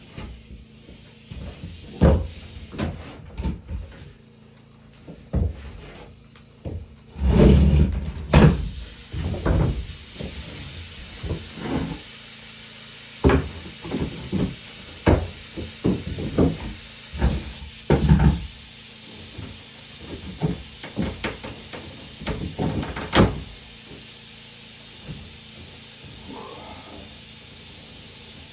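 Irregular wooden knocks and thumps from woodworking, spaced a second or a few seconds apart. The heaviest thuds come about seven to eight seconds in. The last few seconds are quieter, with only a steady hiss.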